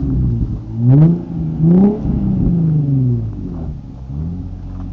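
Car engine revved in blips: the pitch climbs quickly and falls back a few times, the last fall slow and long.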